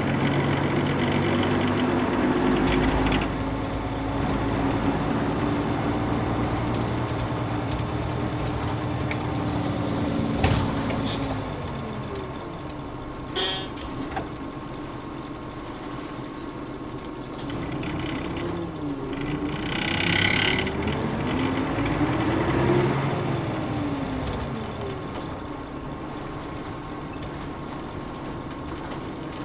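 Nissan Diesel UA bus's PF6HTA six-cylinder diesel, heard from inside the bus. The engine note drops as the bus slows, with short air hisses from the air brakes partway through. It picks up and drops again once more, then settles lower and quieter near the end.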